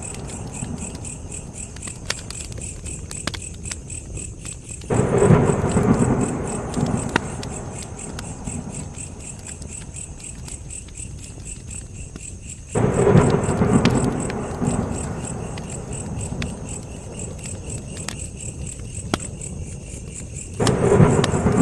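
Campfire crackling with scattered sharp pops, over a steady high chirring of crickets. Three times, about five, thirteen and twenty-one seconds in, a low rumbling surge starts suddenly and fades over a few seconds.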